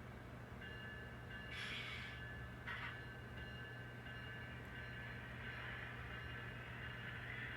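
N scale model train running slowly on the track: a faint steady motor whine over a low hum, with two short rattles of wheels over the rails about two and three seconds in.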